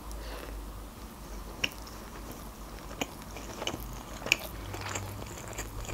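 A person biting into and chewing sushi close to the microphone: soft wet chewing, with a few sharp mouth clicks.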